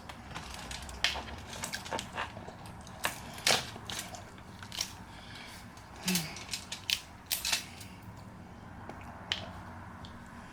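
Seafood shells being cracked and snapped apart by hand, close to the microphone: irregular clusters of sharp cracks and crackles, thickest about a second in, around three and a half seconds, and between six and eight seconds.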